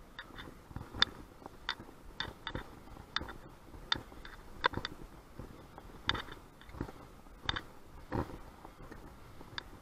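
A series of irregular sharp clicks and taps, about one or two a second.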